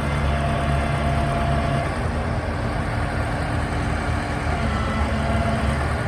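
The Hopto H-1900 excavator's two engines running together steadily, heard from the operator's cab, the pitch shifting slightly about two seconds in.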